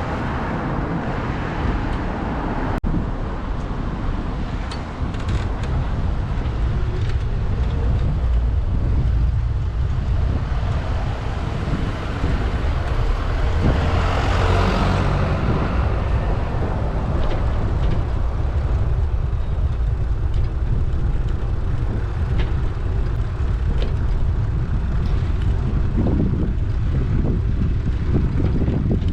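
Street traffic noise heard from a moving bicycle, under a steady low rumble of wind on a GoPro's microphone; a vehicle passes about halfway through, swelling and fading.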